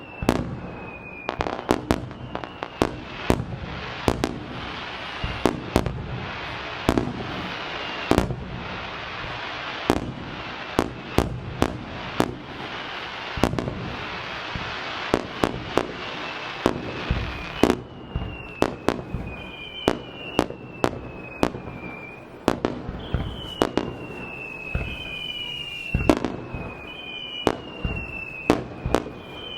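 Fireworks display: a rapid, irregular series of loud aerial shell bursts over a steady crackling hiss. Short whistles falling in pitch sound among the bangs, more often in the second half.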